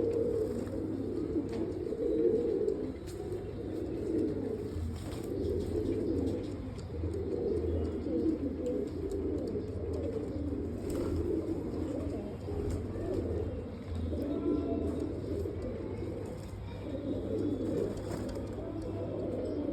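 Many domestic pigeons cooing together, low overlapping coos that run on without a break.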